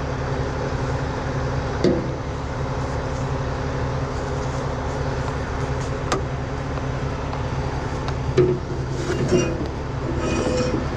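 Heavy diesel truck engine idling steadily, with a few sharp metal clanks and knocks from hook-up work and a brief squeak near the end.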